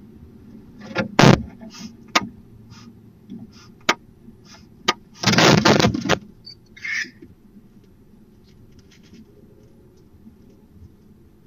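Barn owls calling: short harsh rasps and clicks, then a loud hissing screech lasting about a second, starting about five seconds in. A shorter call follows, and it is quieter near the end.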